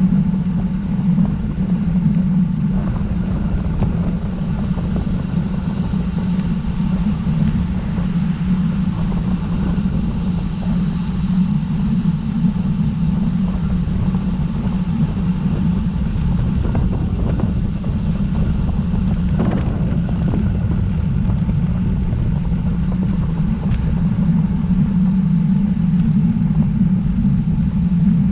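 Steady low wind noise and rumble on the microphone of a camera carried on a moving road bike, with a few faint knocks in the middle.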